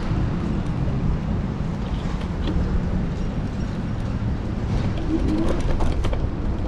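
Steady low rumble of road and wind noise from an electric scooter ride, picked up by a handlebar-mounted action camera, with a few faint clicks about five to six seconds in.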